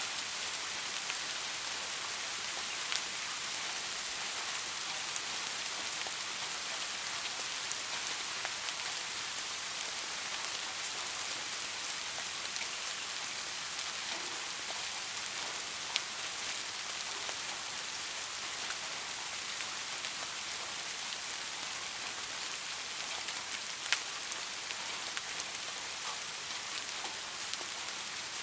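Steady rain falling on a surface, an even hiss with individual drops ticking sharply now and then, a few of them louder, about 3, 16 and 24 seconds in.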